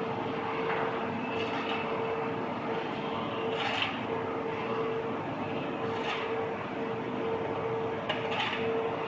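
Bottle and can compactor machine running: a steady mechanical noise and hum, with a short hissing burst about every two seconds.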